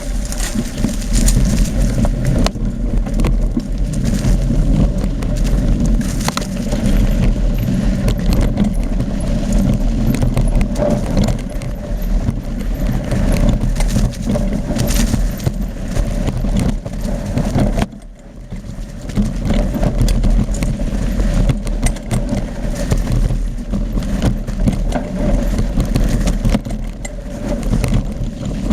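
Mountain bike riding down a rough trail: wind rumbling on the microphone, with the bike rattling and clattering over bumps and rocks. A brief lull about two-thirds of the way through.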